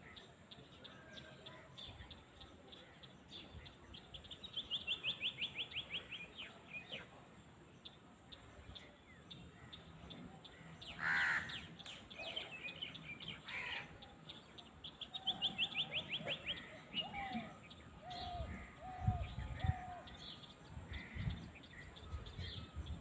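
Wild birds calling in open countryside. A fast, high trill falls in pitch twice. A single harsher call comes about halfway through, and lower chirping notes follow near the end, along with a few low thumps.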